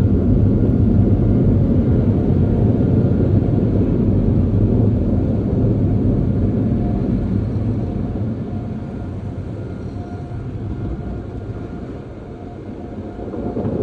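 Steady low rumble of a car heard from inside the cabin, easing off about eight seconds in and building again near the end.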